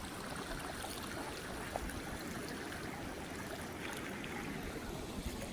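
Floodwater flowing steadily, a continuous rush of running water.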